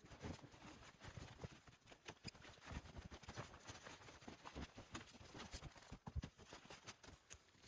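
Faint, irregular soft crunches and thuds, like footsteps in snow.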